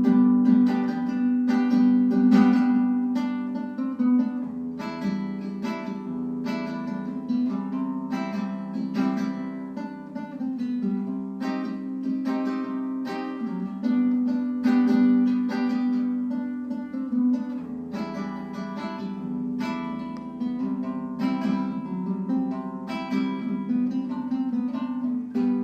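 Acoustic guitar playing an instrumental break between verses of the song, chords picked and strummed in a steady rhythm with no singing.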